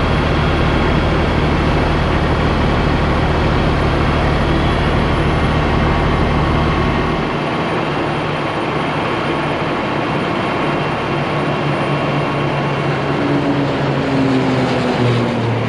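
Heavy diesel engine running under a steady mechanical din, its deep drone dropping away about seven seconds in; a faint falling tone follows near the end.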